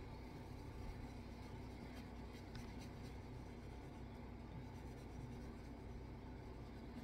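Faint scratchy rubbing of steel wool being worked over a straight razor blade to scrub off rust and black residue.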